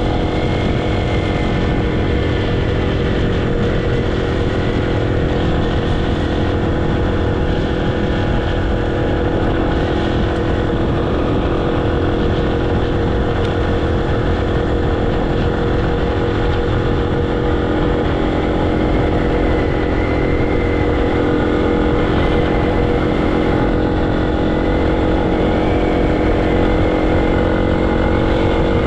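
Motorcycle engine running at a steady speed while riding, a constant hum with little change in pitch.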